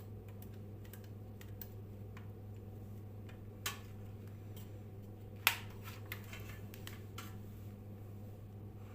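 Steady low hum with scattered light clicks and taps; the two loudest clicks come about three and a half and five and a half seconds in.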